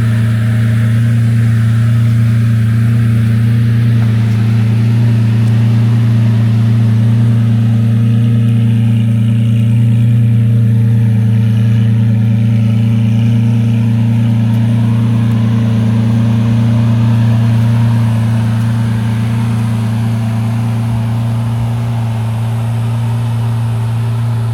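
Lamborghini Aventador LP700-4 Roadster's 6.5-litre V12 running steadily at an even engine speed, a deep constant drone with no revving; it drops slightly in loudness about three-quarters of the way through.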